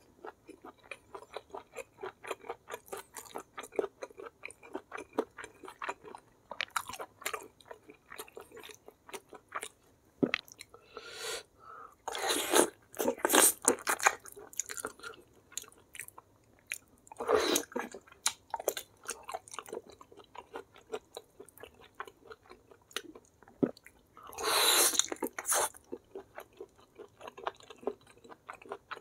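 A person eating close to the microphone: steady chewing with many small wet clicks, broken by louder crunching bites about twelve, seventeen and twenty-five seconds in. The meal is beef-foot kikil, crushed fried chicken with petai sambal and raw vegetables.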